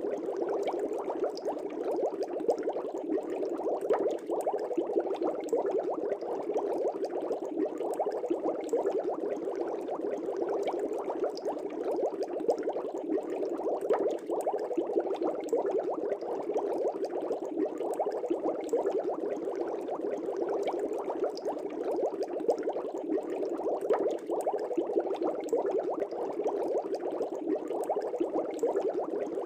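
Air bubbles streaming and bubbling steadily in an aquarium, a dense burbling with many small pops.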